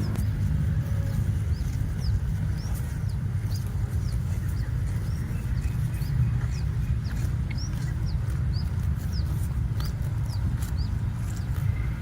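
A bird calling with short, sharp high chirps, about two a second, over a steady low rumble.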